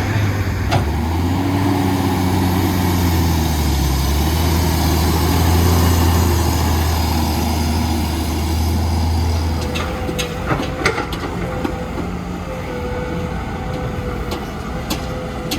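Heavy diesel construction machine engine working under load, its pitch rising about a second in and easing off about ten seconds in, then running on more quietly with a few sharp metallic knocks about eleven seconds in.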